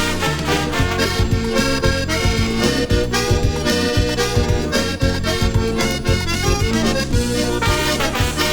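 Instrumental dance-band music: accordion over a steady bass and drum beat, with brass, played from a vinyl record.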